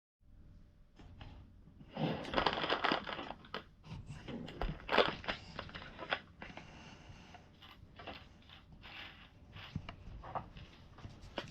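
Hands handling plastic LEGO pieces: a run of small clicks, rattles and rustling, loudest about two seconds in and again around five seconds.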